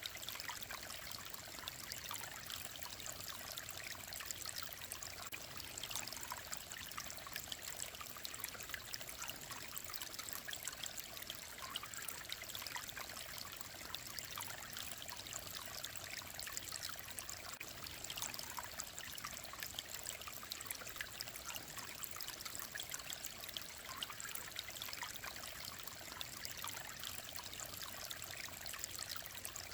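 Small mountain stream running over rocks, a steady bright babble and trickle of clear water.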